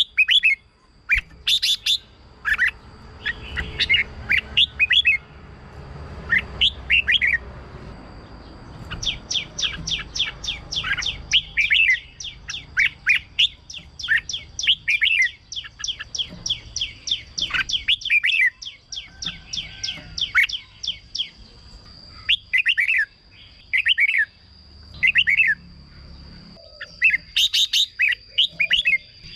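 Red-whiskered bulbul singing: bursts of short, quick whistled notes, with a long fast run of notes through the middle. A faint steady high tone sounds throughout.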